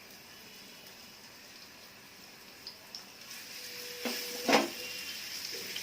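Chopped ginger and garlic frying in hot oil in a pan and being stirred. The sizzle grows louder about three seconds in, with a couple of light clicks and then a sharp knock of a utensil against the pan a little later, the loudest sound.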